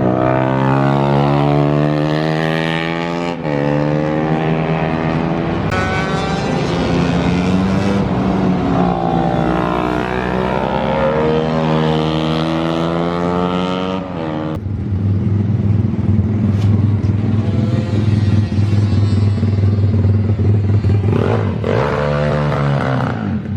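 Pit bike engine revving hard, its pitch climbing and dropping back several times. About halfway through it settles to a lower, steadier note.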